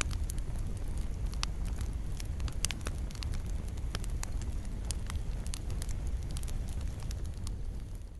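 Wood fire in a fireplace crackling: a steady low rumble of flames with frequent sharp pops and snaps. Near the end the sound fades down.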